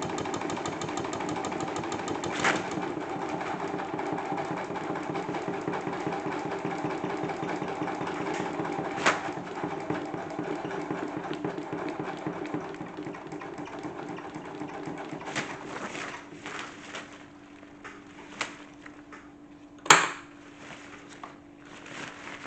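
Salad spinner converted into a toy washing machine, its small electric motor spinning the basket with a broken balloon as an unbalanced load: a steady motor hum with heavy rattling and shaking. The rattling dies down about two-thirds of the way through while the hum carries on, and there are a few sharp knocks, the loudest near the end.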